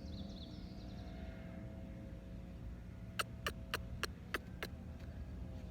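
A quick run of six sharp clicks, about three a second, starting about three seconds in, over a low steady hum.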